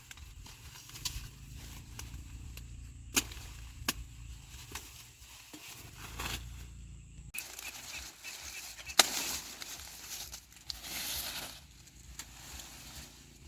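A few sharp snaps or cracks among patches of rustling, the loudest snap about nine seconds in, over a low rumble that cuts off abruptly about seven seconds in.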